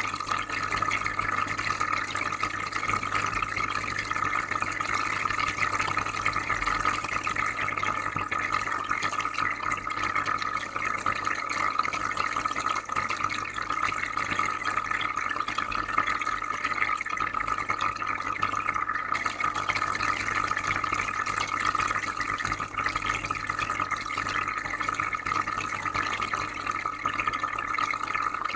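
Aquarium filter running: steady bubbling, trickling water with a low hum underneath.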